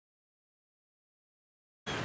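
Dead silence with no audio at all, then a noisy sound spread across all pitches cuts in abruptly just before the end.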